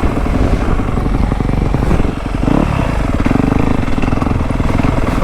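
Dirt bike engine running on a trail ride, its revs dropping briefly about two seconds in and then holding at a steady pitch.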